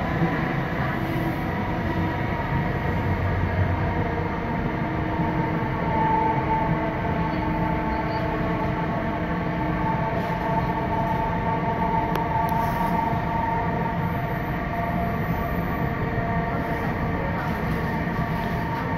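Electric passenger train running along the line, heard from inside the carriage: a steady rumble of wheels on track with a faint steady whine.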